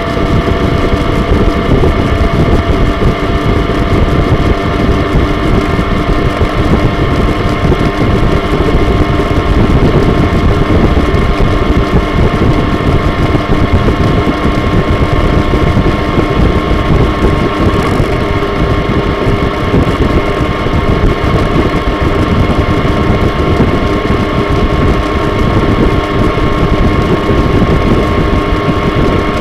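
A Yamaha MT motorcycle engine running at a steady pitch while riding, with wind rushing over the microphone. The engine note rises slightly near the end.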